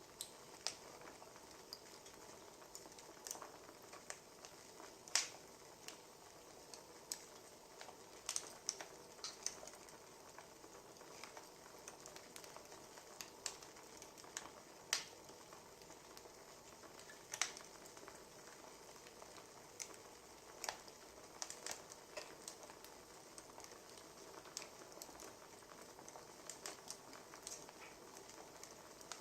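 Wood fire crackling: irregular sharp pops and snaps, a second or two apart, over a steady faint hiss.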